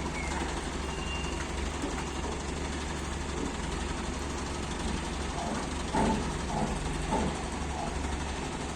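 A heavy machine's engine running steadily at idle with a low, even hum. Brief voices call out about six and seven seconds in.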